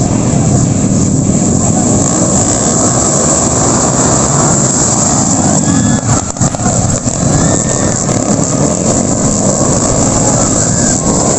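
Underbone motorcycle engines running and revving in a motocross race, loud and continuous, with the pitch sweeping up and down a few times in the second half.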